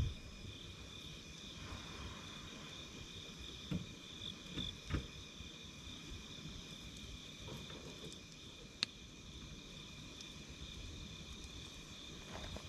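Night insects singing steadily in two high, even tones, with a wood campfire crackling now and then: a few soft pops around four to five seconds in and one sharp snap near nine seconds.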